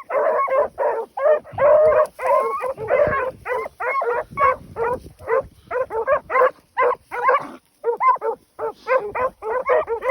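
Several beagles running a rabbit trail and giving mouth together: a steady chorus of barks and bawls, several a second, with a brief lull about three quarters of the way through.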